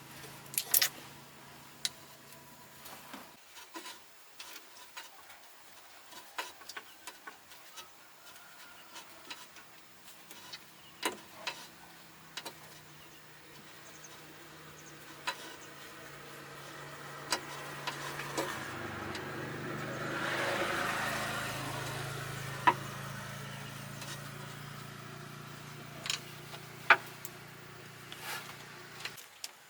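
Scattered sharp clicks and knocks, like tools on metal, over a low mechanical hum that stops about three seconds in and returns more strongly in the second half, swelling to its loudest around two-thirds of the way through.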